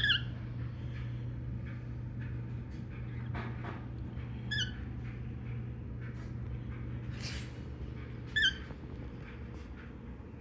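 Pet birds giving short, pitched chirps, one at the start, one about four and a half seconds in and one near the end, over a steady low hum and a few faint rustles.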